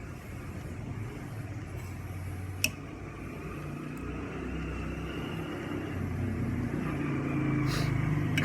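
A motor vehicle's engine running, getting louder in the second half. One sharp click about two and a half seconds in.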